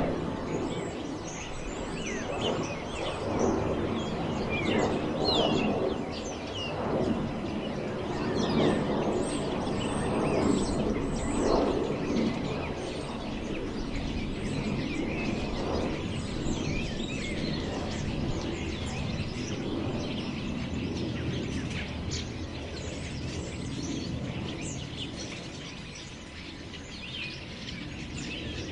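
Wind blowing through forest trees in gusts that swell and fade, strongest in the first half and easing toward the end, with birds chirping throughout.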